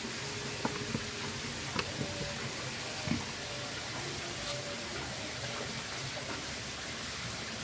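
Steady background hiss with a few light, scattered clicks and taps during hands-on work on a washing machine.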